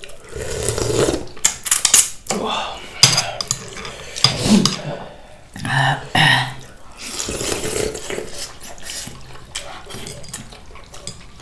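Close-up eating sounds of hot soup and noodles: slurping and chewing, broken by sharp clicks of utensils against a bowl.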